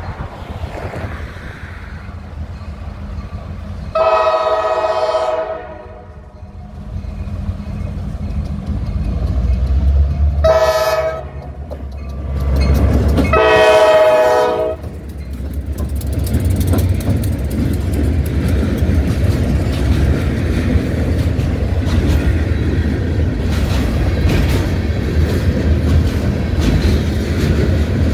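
Norfolk Southern freight train's diesel locomotives approaching and passing, sounding the horn three times: a long blast, a short one, then another long blast as the engines go by. After that the freight cars roll past with a steady clatter of wheels over the rails.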